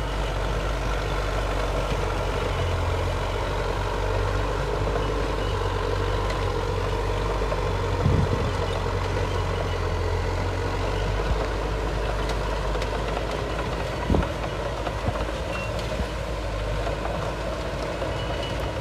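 Heavy diesel earthmoving machinery running steadily with a low rumble, with a short clank about eight seconds in and another about fourteen seconds in.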